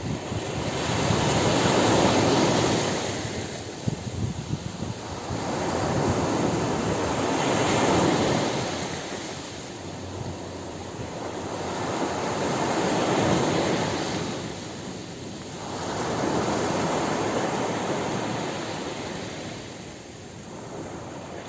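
Ocean surf breaking on a beach in slow swells, each wave rushing in and washing back over several seconds, about four waves in all.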